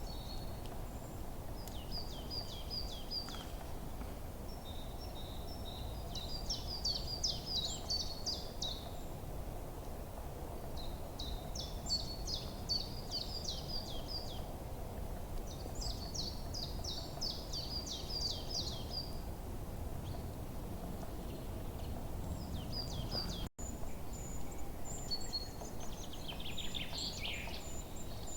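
Songbirds singing short, high, rapid trilling phrases every few seconds, over a steady low hiss of background ambience.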